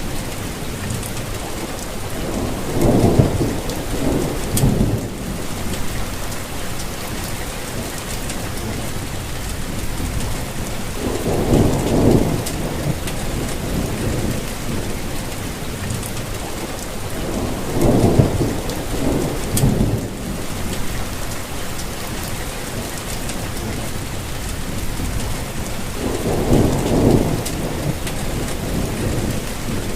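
Steady rainfall with low rumbles of distant thunder that swell and fade about six times.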